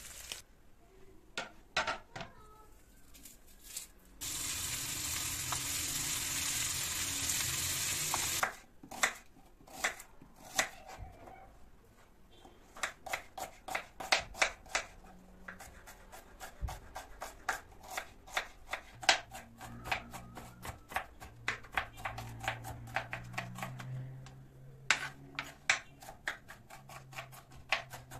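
Kitchen cooking sounds: a steady hiss for about four seconds, then a long run of quick, sharp knocks, several a second.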